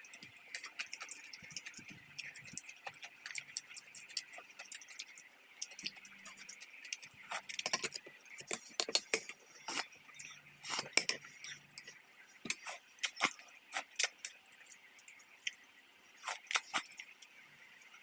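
Eating sounds at a hotpot meal: irregular light clicks and clinks of utensils against bowls and dishes, with a faint steady hiss behind them.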